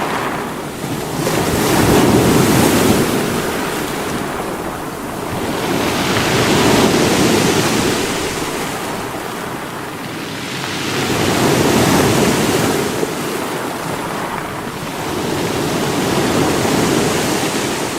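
Sea waves breaking against rocks, a continuous rushing wash that swells and ebbs, with four surges about five seconds apart.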